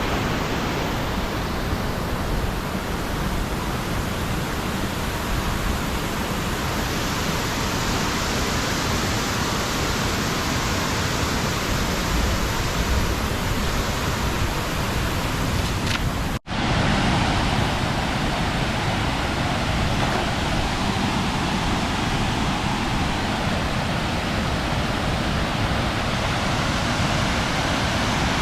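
Steady, loud rush of floodwater pouring over a spillway, cutting out for an instant about two-thirds of the way through.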